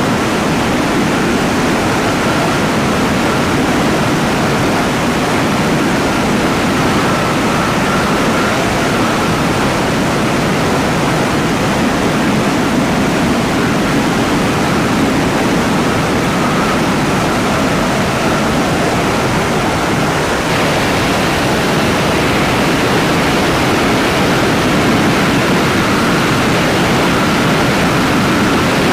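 Helicopter engine and rotor noise: a loud, steady rush with a faint high whine that comes and goes.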